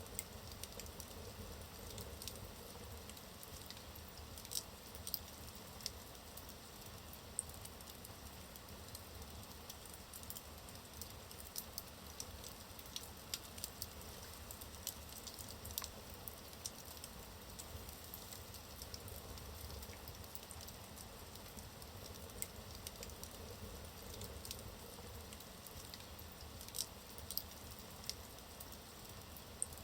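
Logs burning in a fireplace: a low steady hiss with irregular sharp crackles and pops, a few of them louder than the rest.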